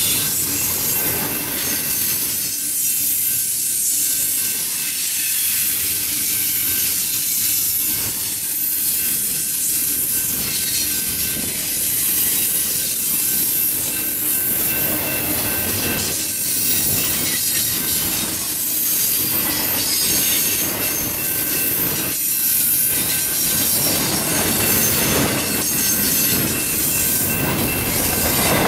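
Double-stack intermodal freight cars rolling past steadily: the continuous rumble and hiss of steel wheels on rail, with a thin high wheel squeal and now and then a clack as wheels cross rail joints.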